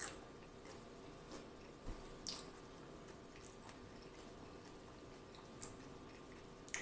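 Faint closed-mouth chewing of a mouthful of loaded nachos and tortilla chips, with a few soft, scattered crunches and mouth clicks.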